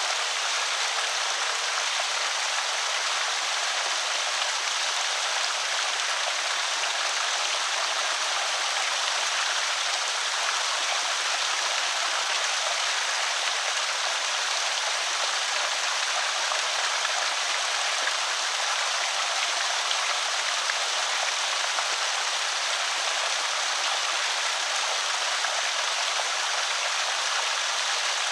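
Creek water pouring over a small spillway: a steady, even trickling rush that doesn't change.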